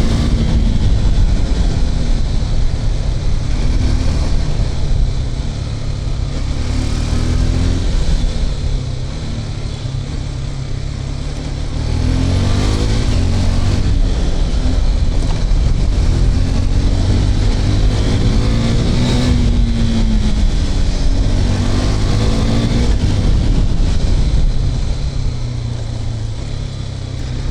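KTM RC 390's single-cylinder engine running under way, its pitch climbing and dropping several times as the rider revs up and eases off, with a steady rush of wind and road noise. It quietens for a few seconds near the middle before pulling hard again.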